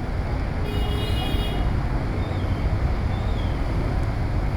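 City street traffic in heavy rain: a steady hiss of rain and tyres over a deep rumble of engines and wind on the microphone. A short high beep sounds about a second in.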